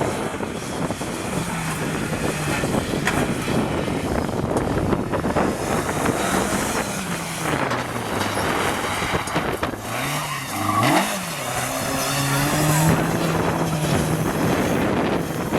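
Rally car engine at full throttle, its revs climbing and dropping repeatedly as it changes gear. About ten seconds in the revs fall sharply and jump back up, as on a downshift, and then it pulls away again.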